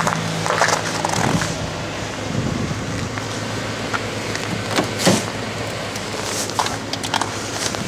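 1999 Toyota Corolla's 1.8-litre four-cylinder idling while it warms up after a start in extreme cold, a steady low hum. Several sharp clicks and knocks sound over it.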